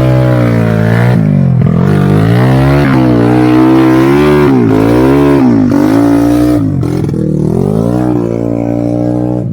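Motor vehicle engine running hard under changing throttle, its pitch rising and falling again and again with several sharp dips, as when easing off and opening up or changing gear; it eases off and gets a little quieter near the end.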